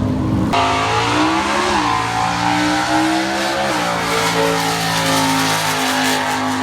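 Car engine accelerating. Its pitch rises slowly, then drops sharply at a gear change about two-thirds of the way through and settles at a steadier note.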